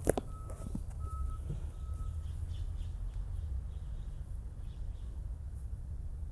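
Short electronic beeps of one steady pitch repeating evenly, about one every three-quarters of a second, which stop about two seconds in. A sharp click comes just after the start, over a steady low rumble.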